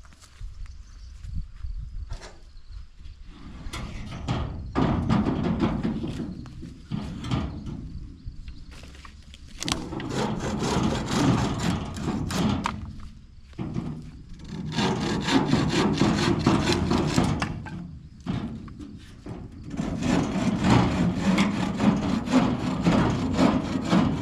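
Hand saw cutting through wood in four long bouts of fast back-and-forth strokes, with short pauses between bouts.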